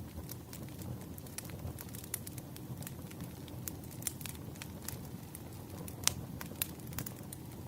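Campfire burning: a steady low rumble of flames with scattered sharp crackles and pops of burning wood, the loudest pops about six seconds in.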